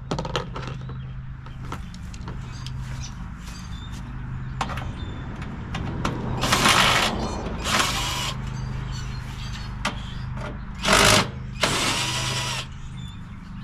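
Cordless power drill/driver run in four short bursts in the second half while an old air conditioner condenser is taken apart for scrap. Small metal clicks and knocks sound between the bursts, over a steady low hum.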